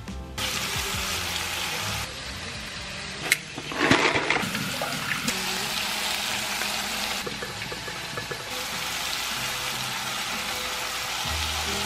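Sliced onion, bell pepper, tomato and garlic sizzling in oil in a frying pan, a steady hiss with a sharp click about three seconds in and a louder burst a moment later. Background music plays faintly underneath.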